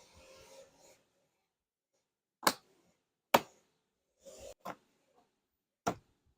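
Workshop handling noises: three sharp clicks or knocks, about two and a half seconds in, a second later, and near the end, with brief rubbing or scraping between them.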